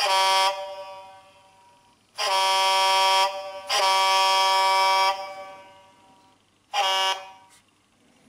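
Loud multi-note air horn sounding in blasts: a short blast ending about half a second in, two long blasts of roughly a second each between about two and five seconds in, and a short blast near the end, each trailing off with an echo.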